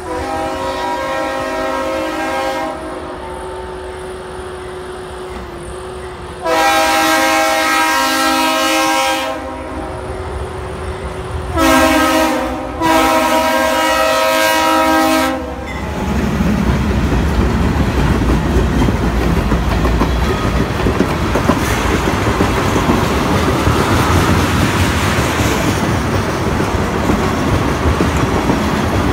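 Freight diesel locomotive horn sounding four blasts for a grade crossing, long, long, short, long, the last ending about 15 seconds in. Then the locomotives pass close by with a heavy engine rumble, followed by tank cars clattering steadily over the crossing.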